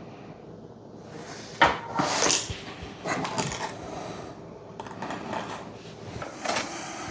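Takeaway food box being handled: scattered sharp knocks and rustles of the packaging, loudest about two seconds in.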